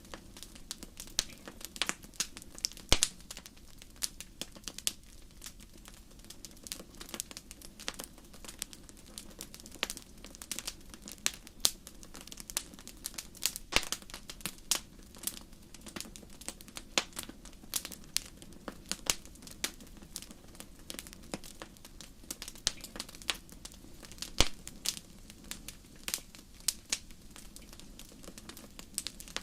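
Wood fire crackling in a fireplace: a steady stream of irregular sharp pops and snaps over a low hiss, with a few louder pops standing out.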